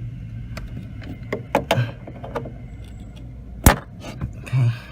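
Scattered light metallic clicks and knocks of hand work on the clutch cable's retaining clip, with one sharp, loud click about three-quarters of the way through, over a steady low hum.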